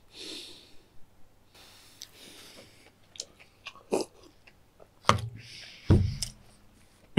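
A person chewing a mouthful of food close to the microphone, with small mouth clicks. About four seconds in, he drinks from a plastic cup and several loud gulps and swallows follow.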